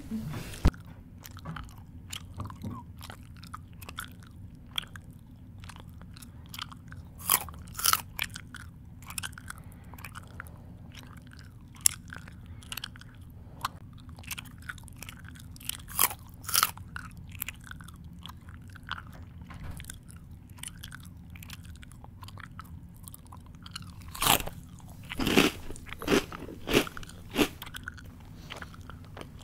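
Close-up chewing of crunchy food with the mouth working wetly: irregular crisp crunches and smacks, bunching into a quick run of bites near the end. A faint steady low hum sits underneath.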